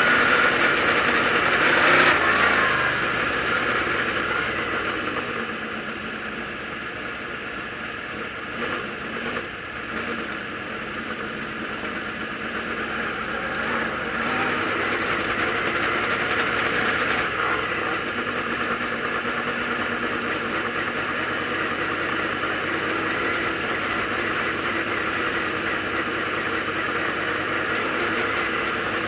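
Dirt late model race car engine running at low parade speed. It eases off a few seconds in and picks up again around the middle.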